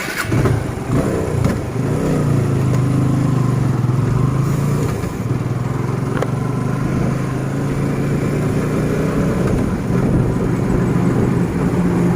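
Motorcycle engine running steadily, with a constant low hum under a wash of noise.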